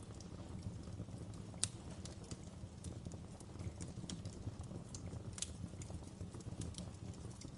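Wood fire crackling in a fireplace: a steady low rumble of flames with irregular sharp pops and snaps, the loudest one about one and a half seconds in.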